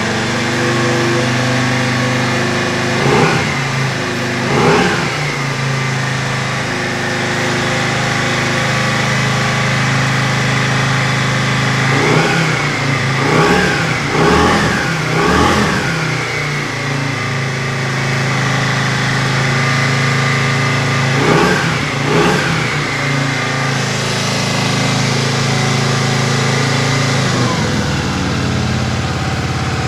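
A 1993 Yamaha Virago 535's air-cooled V-twin engine idles steadily and is blipped on the throttle in short revs. It revs twice early on, then four times in quick succession, then twice more, each time dropping back to idle.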